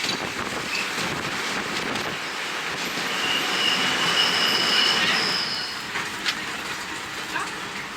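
Passenger train running on the rails, with a high, steady wheel squeal for about two seconds midway and a few clicks of wheels over rail joints.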